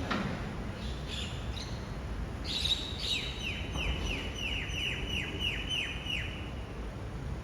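A bird calling in a quick series of short, falling chirps, about three or four a second, for a few seconds from about three seconds in, with scattered chirps before. Under it runs a steady low rumble of engine or traffic.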